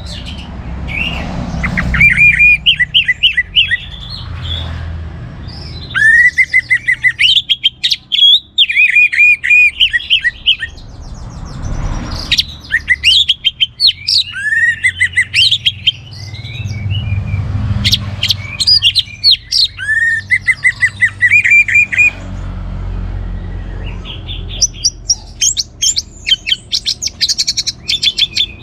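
Orange-headed thrush singing loudly: varied phrases of rapid, repeated chirping notes, each phrase lasting a few seconds and separated by short pauses.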